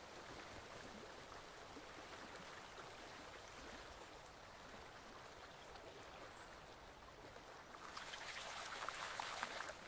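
Small forest stream flowing, a steady babble of water that grows louder and more splashy for the last two seconds or so.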